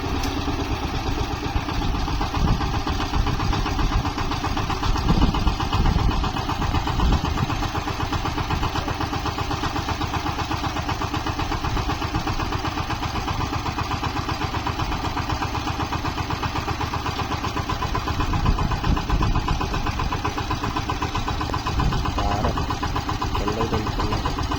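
Small tractor engine running steadily while the tractor puddles a muddy paddy field, swelling louder a few times.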